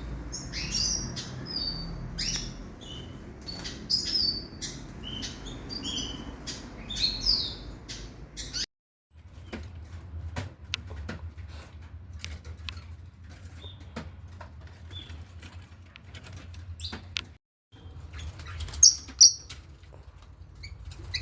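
Caged pet birds in a breeder's aviary chirping and calling, with scattered sharp clicks and wing flutters. The sound drops out twice for a moment, and two loud calls come near the end.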